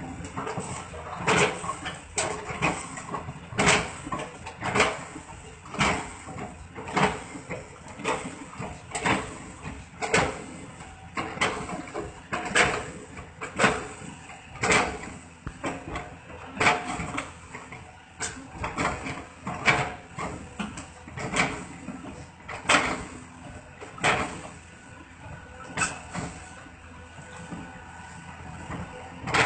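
Repeated sharp knocks or impacts, about one a second and somewhat irregular, each with a short ringing tail, over a faint steady background hiss.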